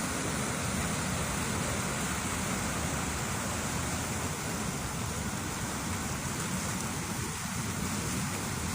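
Flowing water, a steady rushing hiss that holds even throughout.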